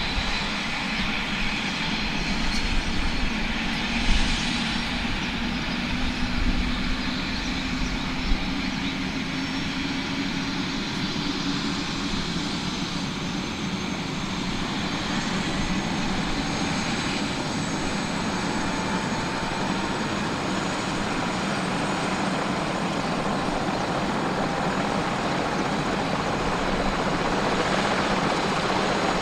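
Kawasaki BK117 C-1 helicopter's twin turboshaft engines running up after startup, with its rotor turning: a steady turbine whine with tones that slowly climb in pitch as the level builds toward the end.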